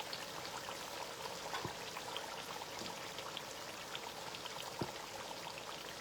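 Spinach stew cooking in red palm oil in a pot, bubbling with many small irregular pops and crackles over a steady hiss.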